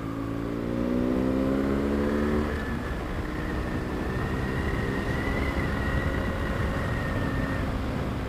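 BMW GS adventure motorcycle accelerating, its engine note rising through a gear for about two and a half seconds, then a gear change. After that it rides on at a steady speed under even wind and road noise.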